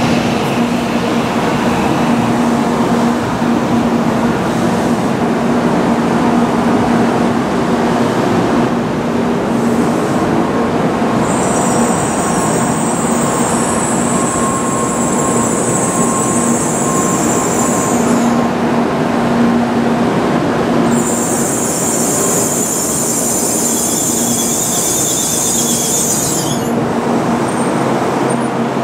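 N700-series Shinkansen train running slowly along the platform with a steady rumble and low hum. A high-pitched squeal from the wheels or brakes comes in about eleven seconds in for several seconds, and again a few seconds later.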